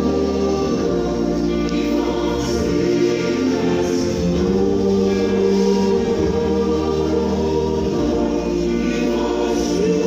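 A choir singing, with held chords that change slowly.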